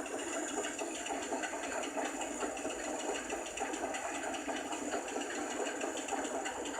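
A small motor running steadily with a fast, even buzz.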